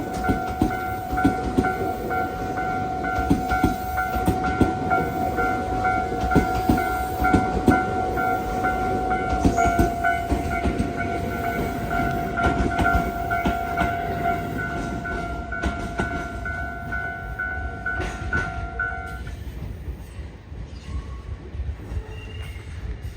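Tobu Urban Park Line electric train running past with rumble and rail clacks, under a steady pulsing tone. The tone stops about three-quarters of the way through, and the train sound then fades away.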